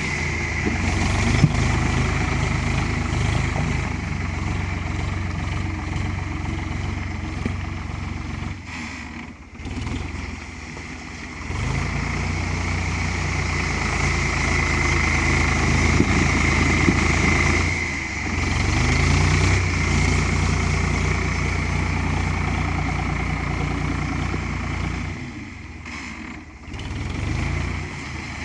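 Ford 3600 tractor engine running steadily, with a constant high whine over the low engine note. Twice the sound drops away briefly and comes back, and the revs rise audibly a couple of times.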